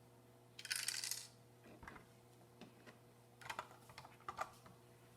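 Small hard plastic Lego pieces being handled: a brief rattle about half a second in, then scattered light clicks and taps.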